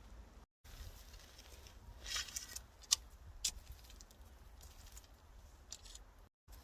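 Digging in garden soil to lift dahlia tubers: a scraping, crunching rustle about two seconds in, then a couple of sharp clicks, over a low steady rumble.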